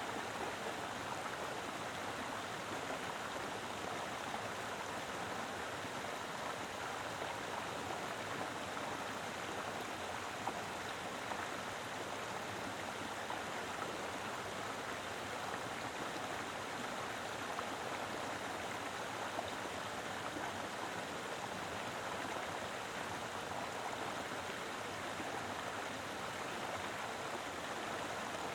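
A mountain river flowing steadily, its water rushing over rocks with an even, continuous splashing.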